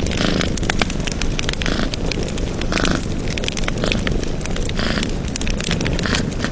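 Wood fire crackling in a fireplace: many sharp pops and snaps over a steady low rumble, with short hissing flares every second or so.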